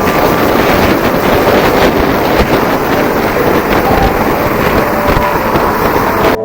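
Loud, steady wind buffeting on the microphone of a motorcycle riding at speed, with the bike running underneath.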